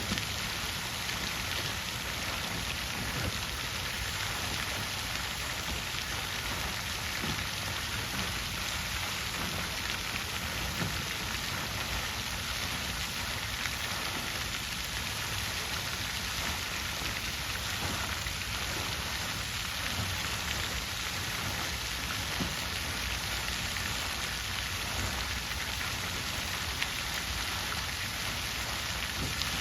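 Water fountain splashing: a steady, even patter of falling water with small droplet ticks.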